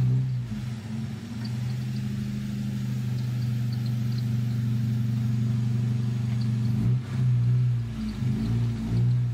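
Nissan 240SX's KA24 four-cylinder engine running steadily, then revved in a few short blips near the end.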